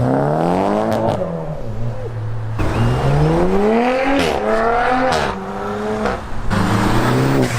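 A car engine revving hard as it accelerates away through the gears, its pitch climbing steeply and then dropping sharply at each gear change, several times over.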